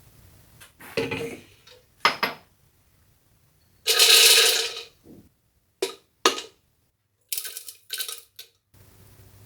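Metal kitchenware and utensils clinking and knocking: separate sharp knocks about a second apart, with one longer scrape of about a second roughly four seconds in, and a quick cluster of clinks near the end.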